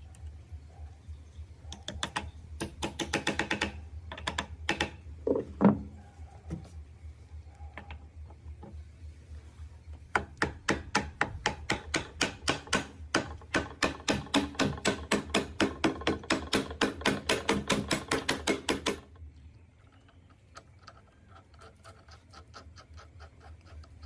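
Rapid metallic clicking at about five clicks a second for roughly nine seconds, after shorter irregular bursts of clicks, over a low steady hum. It stops suddenly about five seconds before the end, leaving only faint ticking.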